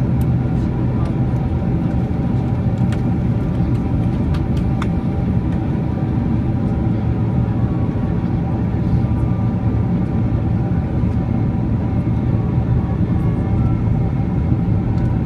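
Steady cabin noise of a Boeing 767-300 airliner in flight on approach: an even rumble of the jet engines and airflow with a steady hum, and a few faint clicks.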